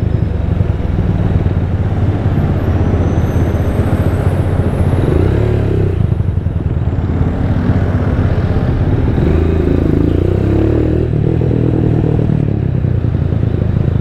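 Rusi Diablo 250cc motorcycle's engine running steadily through a custom-made Orion muffler while riding in traffic.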